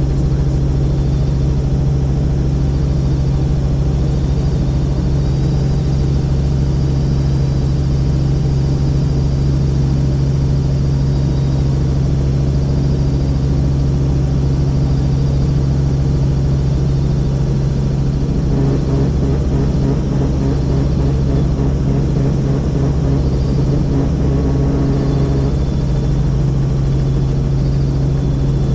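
Helicopter running steadily in flight, heard inside the cabin: a constant loud drone of engine and rotor with a strong low hum.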